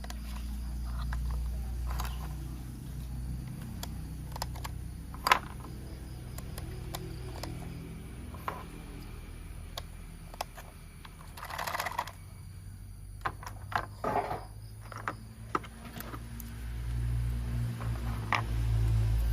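Plastic toy train parts and packaging being handled: scattered clicks and taps with a couple of short rustles, over a steady low hum.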